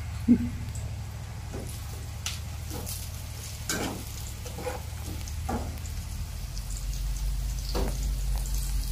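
Chillies, garlic and shallots sizzling in oil in an aluminium pan, sautéed until golden. A spatula scrapes and knocks against the pan a handful of times as they are stirred, over a steady low hum.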